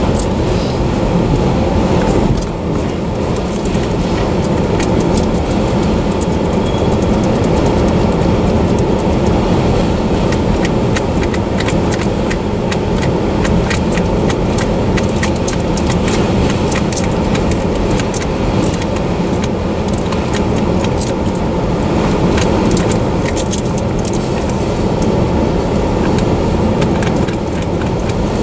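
Autorack freight cars rolling past close by: a steady, loud rumble of steel wheels on rail, with continual metallic clicking and rattling on top.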